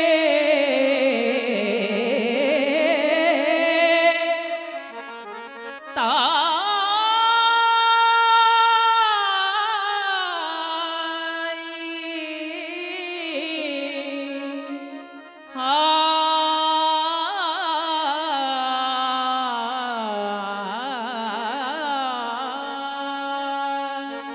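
Marathi abhang devotional music: a held, ornamented melody without words over a steady reed drone, harmonium-like. It is played in three phrases, each fading and the next starting sharply, about six seconds in and again two-thirds through.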